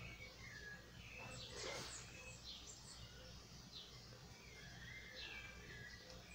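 Faint chirping of small birds, a few short scattered calls over a near-silent background.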